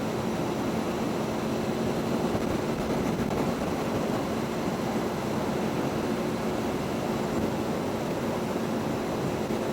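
Motorcycle cruising at a steady speed: an even engine hum that holds one pitch, under a constant rush of wind noise.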